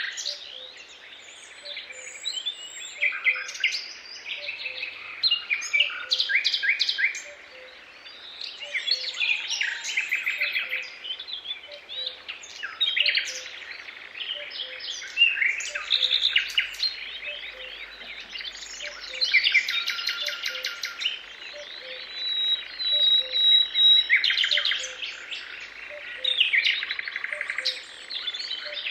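Several songbirds singing together, overlapping chirps, rapid trills and short whistles coming and going. Under them a faint low note repeats about once a second.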